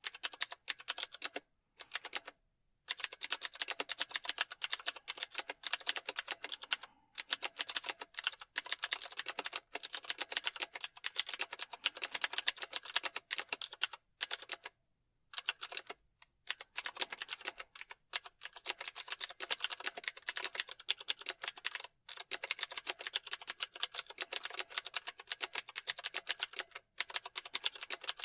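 Computer keyboard being typed on fast, a dense patter of key clicks in bursts with brief pauses between runs.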